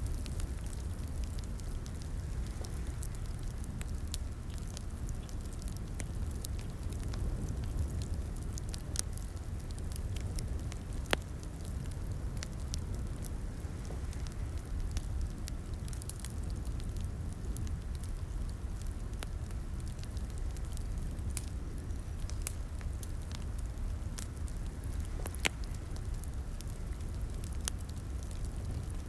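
Wood fire crackling in a fireplace: a steady low rumble of burning with many small sharp pops and snaps scattered throughout, one louder pop about eleven seconds in.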